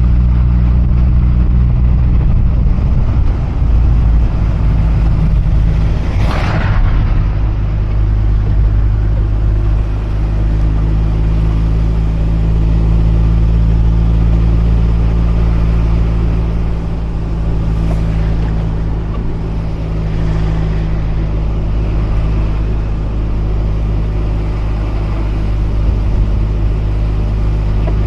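Mazda RX-8's twin-rotor rotary engine running steadily under way, with road noise. Its pitch shifts a little a few times, and there is a brief whoosh about six seconds in.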